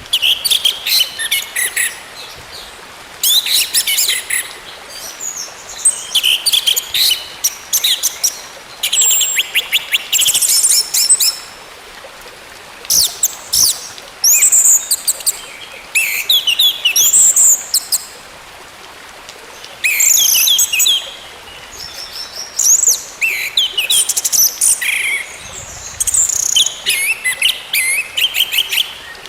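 Orange-headed thrush singing: a run of rapid, varied whistled phrases, each a second or two long, separated by short pauses.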